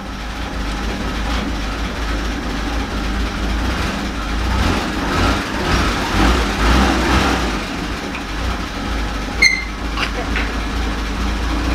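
Willys Jeep engine running steadily as the Jeep is put in gear to move off under its own power, with one sharp metallic click about nine and a half seconds in.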